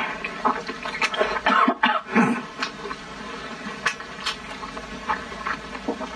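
Close-up chewing and mouth smacking of braised pork belly, with a few sharp clicks of chopsticks against the ceramic bowl.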